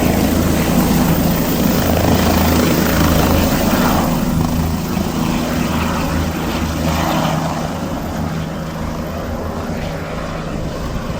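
Helicopter rotor and engine running steadily as a loud low hum with a noisy wash over it, slowly growing quieter in the second half.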